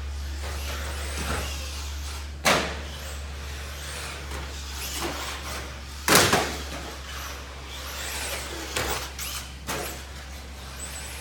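Electric RC stadium truck with a 7.5-turn motor running on a track, with a sharp loud knock about two and a half seconds in and a louder one about six seconds in, then smaller knocks near the end.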